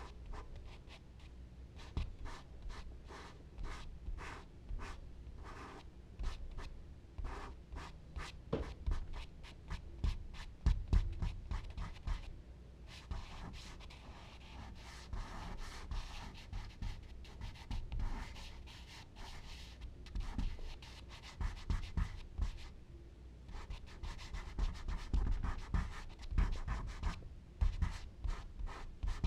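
Charcoal stick scratching and rubbing across smooth Bristol paper in quick, repeated strokes, with a stretch of steadier scrubbing partway through. Occasional low thumps run under the strokes.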